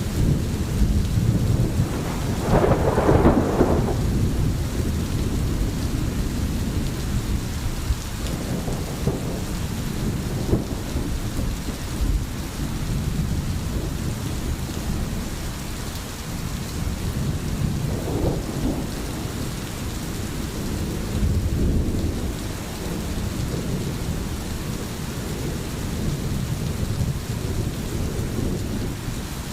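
Steady rain with rolling thunder rumbling low underneath, swelling a few times, most strongly about three seconds in.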